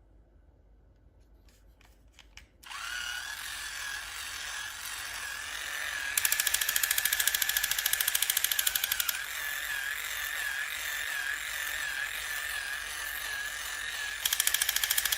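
A small electric motor whirring steadily, starting a few seconds in after a few faint clicks, with a faster buzzing that joins it about six seconds in, drops away about three seconds later and returns near the end.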